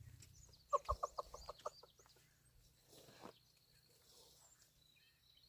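A chicken clucking: a quick run of about eight short clucks about a second in, with faint high bird chirps behind.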